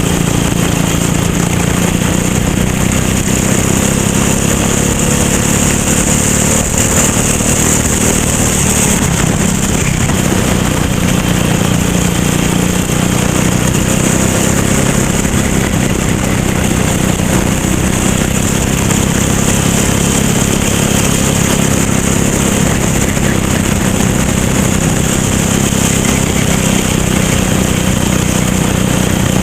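Racing kart engine running loud and continuously under way, its pitch shifting only slightly.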